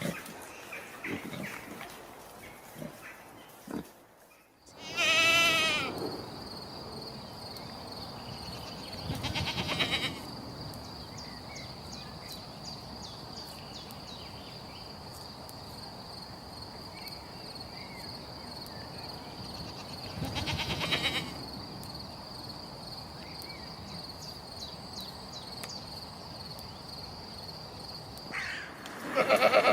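Goat bleating, four loud calls spread through the clip, the first one long. A steady high-pitched whine runs underneath.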